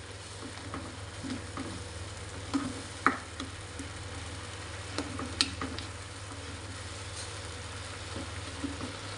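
Blended chili-and-shallot spice paste sizzling in a frying pan as it is sautéed until fragrant, stirred with a spatula. A few short sharp clicks of the spatula against the pan stand out.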